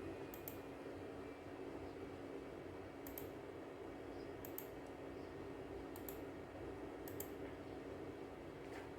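Computer mouse clicking about six times, each click a quick double tick, spread unevenly over a steady low hum.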